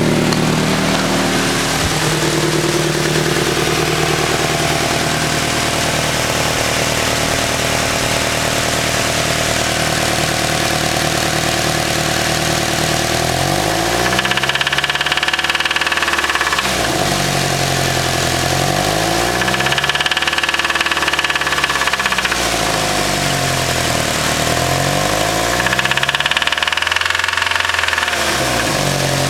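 Nissan SR20 four-cylinder engine idling, then revved three times, each rev rising and falling back to idle, about halfway through, two-thirds through and near the end. The engine has a spun bearing.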